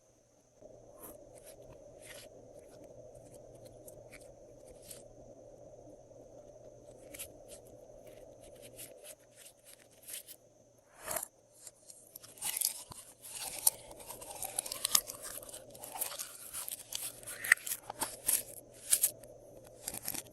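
Slime being squished and worked by hand, crunching and crackling. It starts with scattered small clicks, then turns into dense crackling from a little past halfway until near the end.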